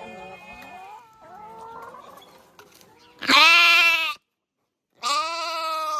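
Goat bleating twice: two loud, wavering calls about a second long each, the first beginning about three seconds in and the second near the end.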